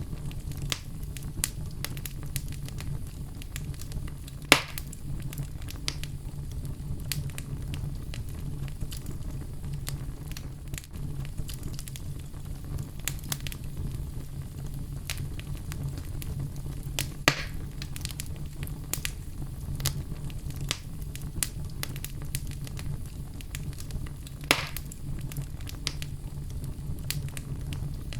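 Oak wood fire burning in a fireplace, crackling steadily with many small snaps. Three louder pops stand out: about five seconds in, about seventeen seconds in and near the end.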